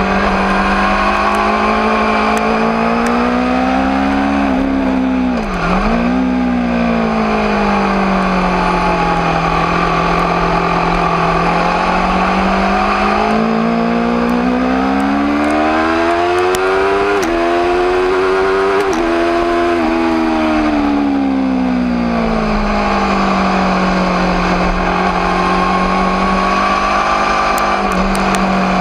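Aprilia RSV4 APRC's V4 engine running, its note climbing to a sharp, brief dip about five seconds in, holding steady, then rising in steps to a peak near the middle before settling back to a steady note.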